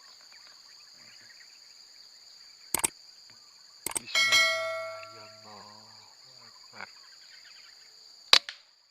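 Several sharp clicks and a ringing metallic clang that fades over about a second, about four seconds in, over a steady high-pitched drone; a last sharp click near the end is the loudest.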